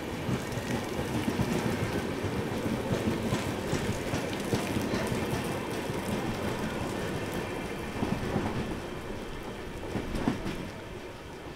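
Indian Railways express passenger coaches rolling past slowly as the train departs, with steady heavy rain falling on the platform and tracks. The sound fades near the end as the last coach pulls away.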